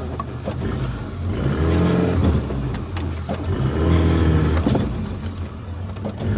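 Suzuki Jimny's engine revving up twice as it pushes through a dense forest track off-road, with a single sharp knock near the second rev.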